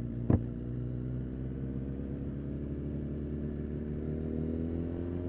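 Kawasaki Ninja ZX-10R's inline-four engine running at low, steady revs, its pitch slowly rising in the second half as it gently accelerates. A short sharp knock sounds about a third of a second in.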